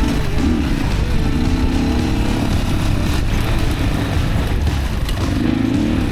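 Yamaha WR155R dirt bike's single-cylinder engine running under way on a rough trail, its pitch rising and falling with the throttle over a heavy low rumble.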